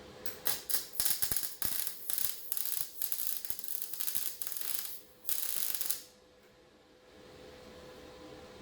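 Welding arc crackling as tack and spot welds are laid on sheet-metal fender panels: a string of short crackling bursts, then one steadier burst of nearly a second that stops about six seconds in.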